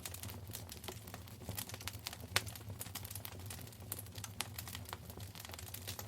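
Wood fire crackling in a fireplace: irregular sharp pops and snaps over a steady low rumble of the flames, with one louder crack a little past two seconds in.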